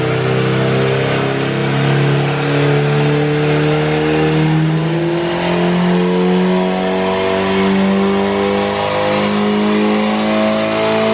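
Turbocharged 1989 Nissan 240SX engine running under load on a chassis dyno, its pitch climbing slowly and steadily through a long pull, then dropping back near the end.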